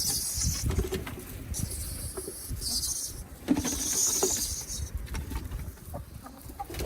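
Cicadas giving harsh, high-pitched distress buzzes in bursts of about a second each, roughly three or four times. Under them is a low rumble and some small clicks and taps.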